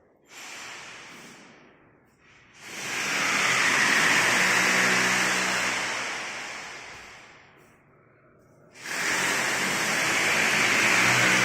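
A power woodworking tool cutting wood in long passes: a brief first touch, then two long bursts of loud hissing cutting noise over a low motor hum, the first fading out slowly.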